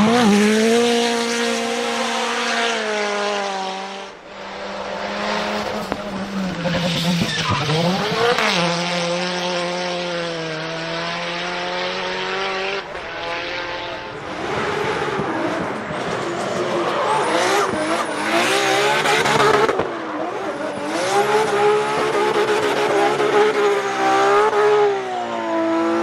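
Drift car engine held high in the revs, its pitch dipping and climbing again as the throttle is worked, over the steady squeal of sliding tyres. The tyre noise grows louder in the second half.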